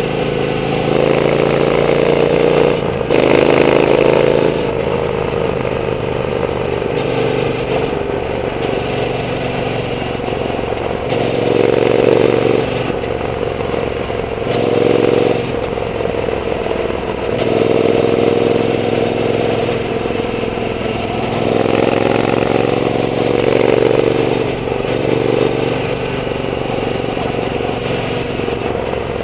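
Triumph Bonneville T120's 1200 cc parallel-twin engine running through a Zard aftermarket exhaust while riding, the revs rising and falling through several short pulls and easings.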